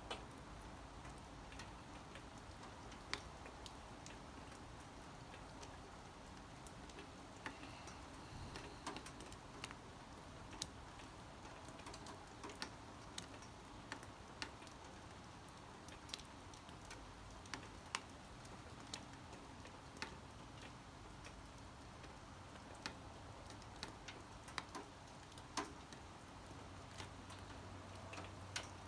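Light rain: a faint steady hiss with sharp, irregular drips and ticks of drops landing.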